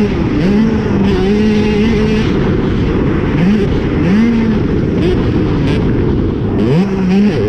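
Cobra 65cc two-stroke motocross bike engine revving hard, its pitch climbing and then holding level several times, over heavy wind noise on the camera microphone.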